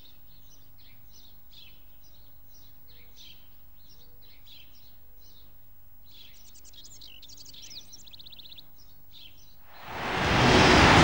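Small birds chirping in quick, repeated short calls, with a rapid trill about seven seconds in. Near the end a loud, steady rush of noise swells up and drowns them out.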